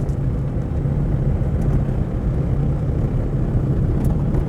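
A vehicle driving along steadily, with a constant low rumble of engine and road noise.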